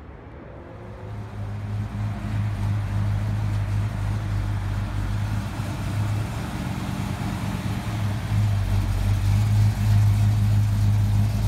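A car engine running with a steady low note, growing louder over the first two seconds and a little louder again later.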